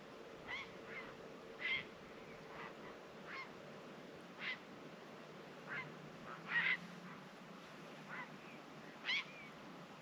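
Birds giving about ten short calls, spaced irregularly and loudest about six and a half and nine seconds in, over a steady background wash of sea waves.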